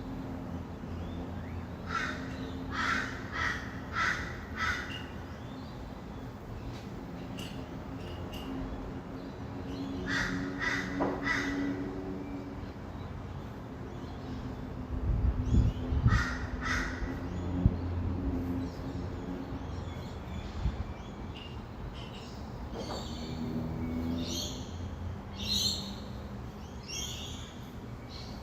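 Birds giving runs of harsh calls, several in quick succession, with higher, shriller calls near the end, over a steady low hum of distant city traffic. A louder low rumble swells about halfway through.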